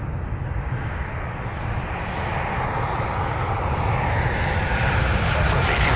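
Jet airliner engines, a steady rumbling noise that grows gradually louder.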